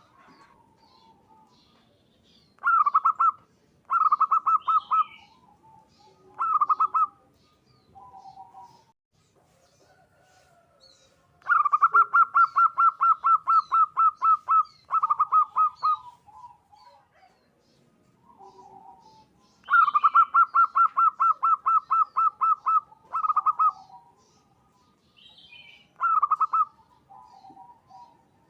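Zebra dove (perkutut) singing: phrases of rapid staccato cooing notes. There are a few short phrases and two long runs of quick repeated notes. Other small birds chirp faintly in between.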